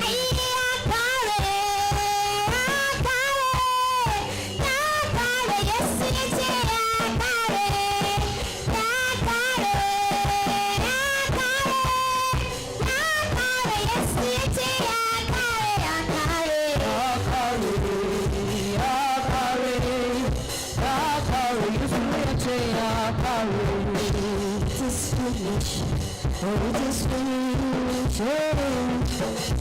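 A live church worship band playing with a drum kit while voices sing a Hausa praise song, the melody holding long notes.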